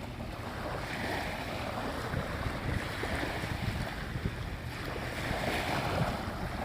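Sea waves washing onto the beach in slow swells, with wind buffeting the phone's microphone.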